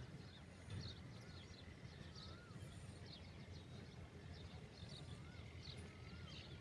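Faint small-bird chirps and twittering: short high notes every half second or so, with a few faint curling whistles, over a low background hum.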